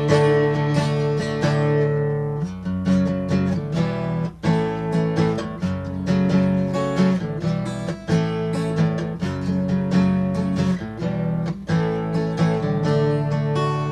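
Guitar strumming chords in an instrumental passage of a song, with no singing.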